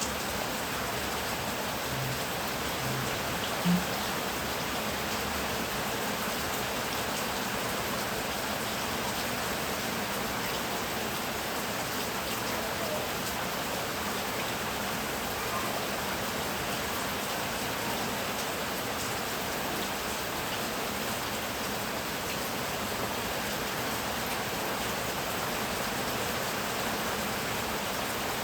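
Steady heavy rain, a dense even hiss of drops with no thunder. Near the start a few short low blips sound, the loudest about four seconds in.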